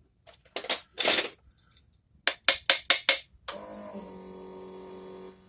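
Sharp knocks and taps on the Rochester two-barrel carburetor as it is worked on by hand, including a quick run of about five clicks. About three and a half seconds in, a steady hum with an even tone starts.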